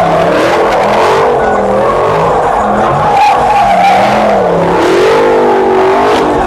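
Car tyres squealing in a continuous, wavering screech as a car slides, with its engine revving underneath.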